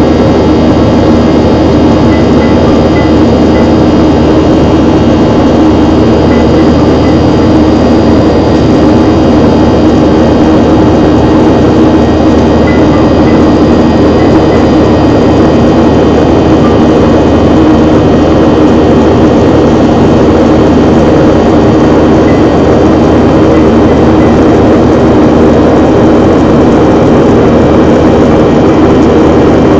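Jet airliner's engines running steadily, a constant loud roar with a steady hum, no rise or fall in power.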